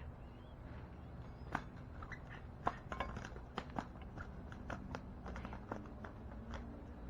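Birds pecking seed at a feeder: a run of irregular, sharp taps and clicks, loosest near the start and ending near the end, over a steady low hum.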